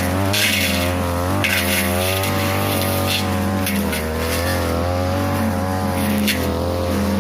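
42cc two-stroke brush cutter with a metal blade running at high speed, its pitch sagging and recovering as the blade bites into tall grass and woody brush. Several short swishing bursts come from the blade slicing through the growth.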